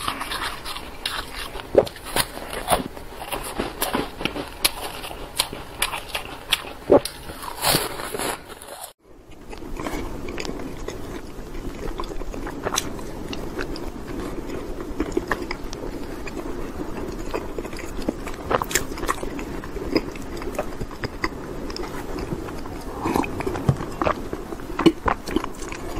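Close-miked eating sounds. For the first nine seconds there are crisp bites and chewing of round green fruit. After a short break, soft, moist chewing of mooncake follows, with frequent small mouth clicks.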